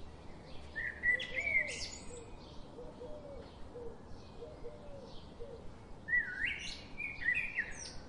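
Background birdsong: two loud whistled song phrases, about a second in and again about six seconds in, over steady faint chirping, with a run of soft low calls in between.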